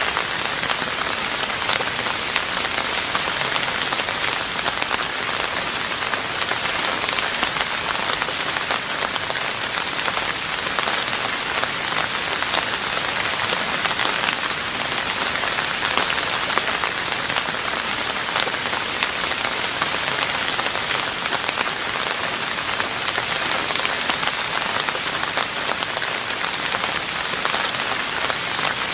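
Steady rain falling on a roof, an even hiss of many close drop ticks.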